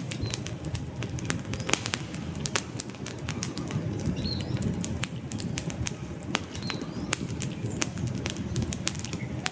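Wood fire burning in a fireplace: frequent sharp crackles and pops of the logs over a low steady rush of flame.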